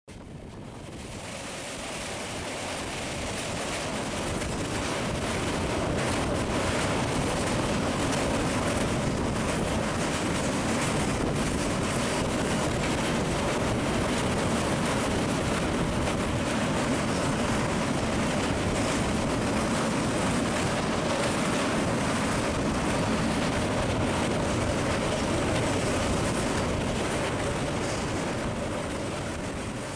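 Passenger train running over a steel truss railway bridge, heard from an open coach door or window: a loud, steady rumble of wheels on rails mixed with wind buffeting the microphone. It fades up over the first few seconds and fades down near the end.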